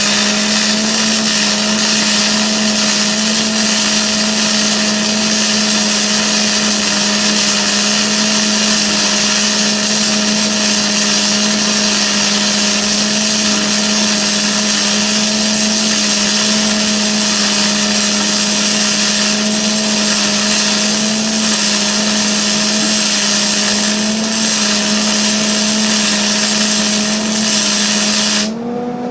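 Electric angle grinder working metal: a steady motor whine under a loud hiss of grinding, until the disc comes off the work near the end and the hiss stops while the motor's pitch rises slightly as it runs free.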